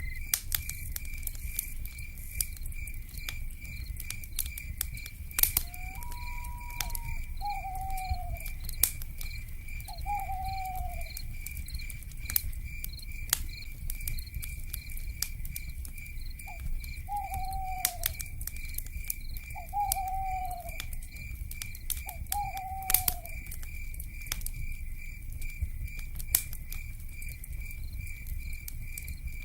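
Wood fire crackling with scattered sharp pops over a low rumble, under a steady, evenly pulsing insect chirr. An owl gives a short falling hoot five times, with one longer held note just before the first.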